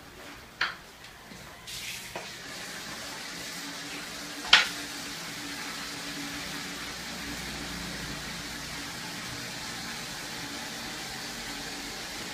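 Chopped turkey frying in a large aluminium pot: a steady sizzle that comes up about two seconds in and holds. A sharp clank of the metal ladle against the pot stands out about four and a half seconds in, with a few lighter clicks near the start.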